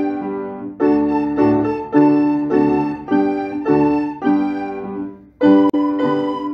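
Piano duet: notes and chords struck in a steady rhythm, each dying away after it is played, with a brief break about five seconds in before the playing resumes.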